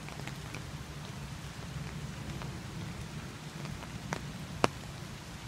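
Steady rain falling on a river and on an umbrella overhead, with scattered sharp ticks of single drops hitting the umbrella; the loudest tick comes about four and a half seconds in.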